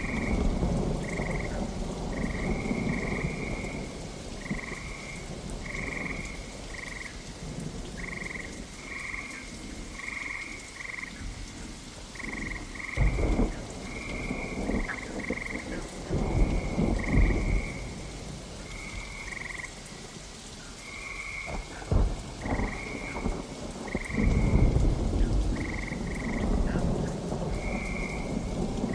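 Steady rain with thunder rumbling several times, including a sharp crack about two-thirds of the way in. Frogs call throughout in short, high croaks repeated every second or so.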